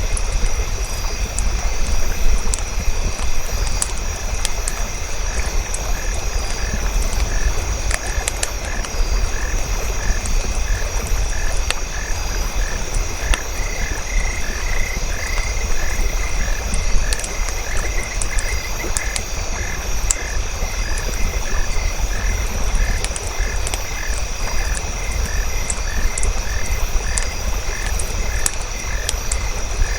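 Frogs croaking in a steady, repeating rhythm, with a second frog joining about halfway, over a low rumble and scattered sharp crackles of a campfire.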